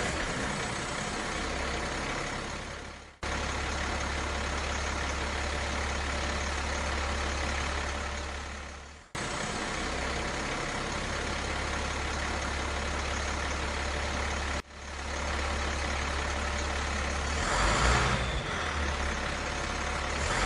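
Heavy vehicle engine running steadily with a deep low hum, a looped sound effect that fades away and then cuts back in three times. It swells louder for a moment near the end.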